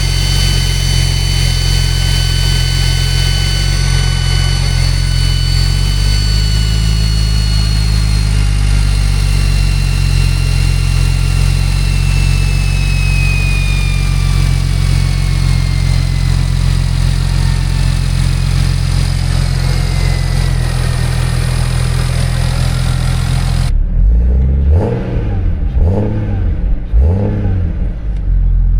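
Single-turbo BMW 335i straight-six running steadily, with the high, jet-like whine of its T51R-style 'jet fighter' compressor housing: several whistle tones slowly falling in pitch. Near the end the whine drops out and the engine is blipped three times in quick succession before settling back.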